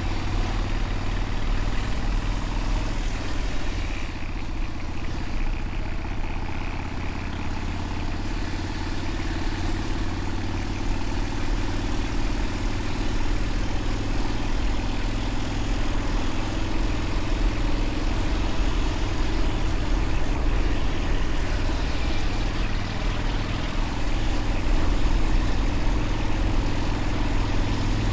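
Motorcycle engine running while riding, its low note holding steady with slight rises and falls in pitch.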